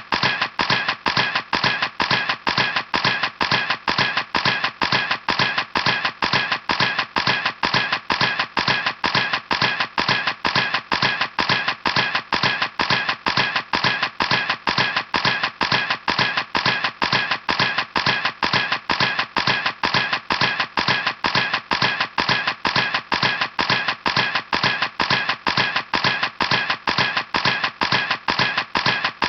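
Camera shutter clicking over and over at an even pace, about three clicks a second, with no break.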